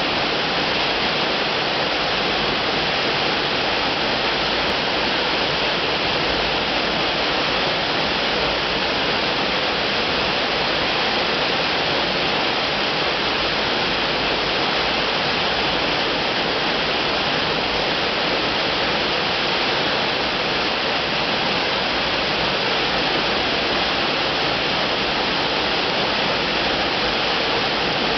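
Waterfall: a steady rush of falling, splashing water that does not change.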